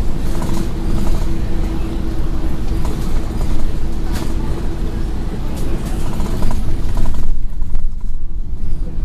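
Scania N113 bus heard from on board while driving: the engine and driveline run with a low rumble and a steady hum, along with road noise and light rattles. The higher road noise drops away briefly near the end.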